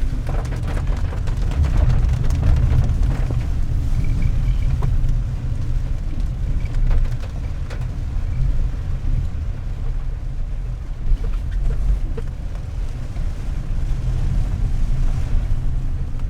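Steady low rumble of a 4x4 being driven, engine and road noise as heard inside the cabin.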